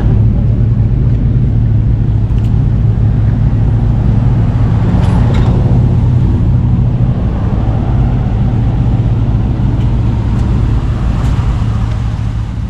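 A truck engine running steadily close by: a deep, even drone with no revving.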